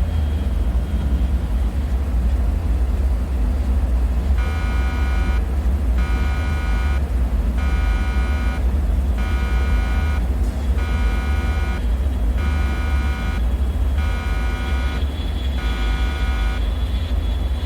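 A deep, steady rumbling drone of bunker ambience, with an alarm buzzer sounding in about eight pulses of roughly a second each. The buzzer starts about four seconds in and stops shortly before the end.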